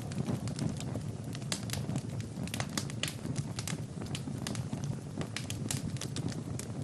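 Wood fire burning in a fireplace, crackling with many irregular sharp pops over a low, steady rumble of flames.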